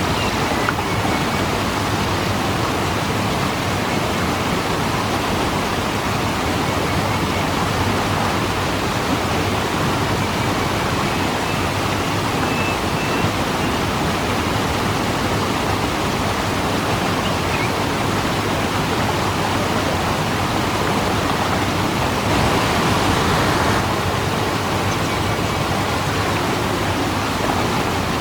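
Waterfall rushing steadily, an even wash of falling water that swells a little louder for a moment near the end.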